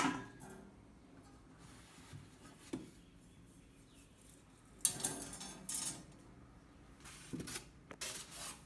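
Microwave cookware accessories being handled: a ringing metallic clink at the start, a few light knocks, and stretches of scraping and rustling about five seconds in and again near the end.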